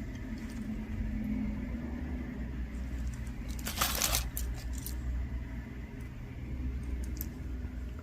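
Costume jewelry being handled and sorted, with a short metallic clink-and-clatter about four seconds in and a few fainter clicks, over a low steady hum.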